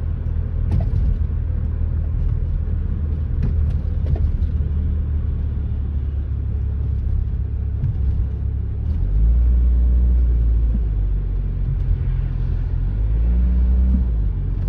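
First-generation Saab 9-3 driving, with a steady low rumble and a few sharp knocks and rattles from the front axle, the clunking fault being shown. The engine note swells twice in the second half.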